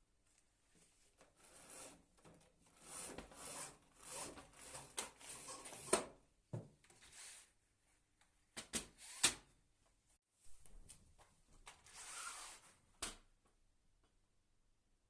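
Rustling and handling noises in a small room, broken by a few sharp clicks and knocks, like things being moved or a drawer or door being worked.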